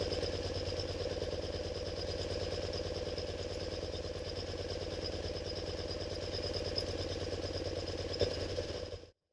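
1974 BMW R90S air-cooled flat-twin engine idling steadily, with no breather 'gobble' now that the breather valve's flapper has been refitted the right way up. A click about eight seconds in, and the sound cuts off abruptly near the end.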